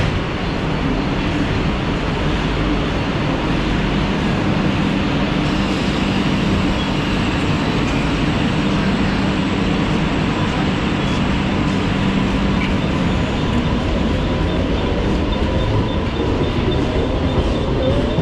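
Western Railway AC local electric train running past close alongside the platform: a loud, steady rush of the moving coaches on the rails, with a steady low hum through the middle.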